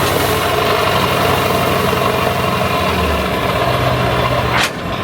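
Heavy truck's diesel engine running steadily. Near the end there is a short sharp burst of noise, and the engine sound then drops in level.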